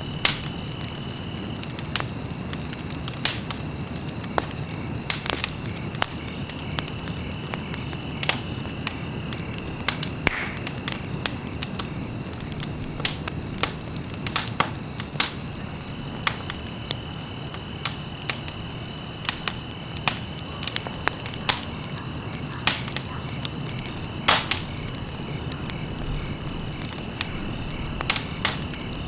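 Wood fire crackling in a fireplace: irregular sharp pops and snaps over a steady low rumble of burning, with a faint steady high-pitched whine behind it.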